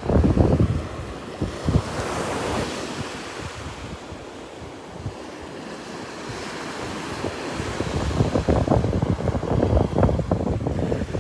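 Ocean surf breaking and washing up the beach, with wind buffeting the microphone in gusts that grow stronger in the second half.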